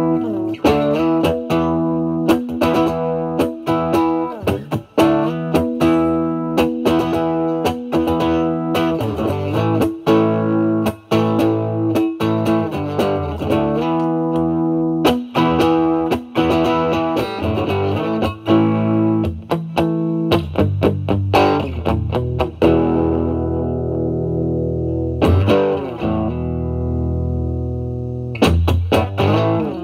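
Fender Stratocaster electric guitar through a Vertex Steel String Clean Drive MK1 overdrive pedal, gain at maximum, into a Marshall Valvestate amp's clean channel: lines of picked notes and chords, then held chords left ringing in the second half with a couple of fresh strums.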